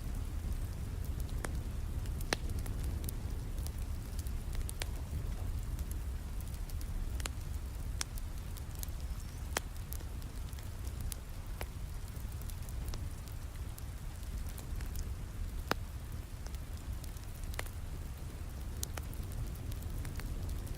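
Steady rain, a constant hiss with a low rumble, mixed with a wood fire crackling, its sharp pops and snaps coming at irregular intervals.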